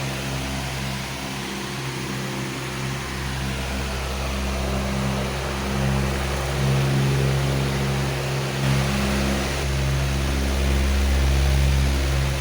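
Powerful electric fan running steadily: a low motor hum under an even rush of air, the hum swelling and easing slightly.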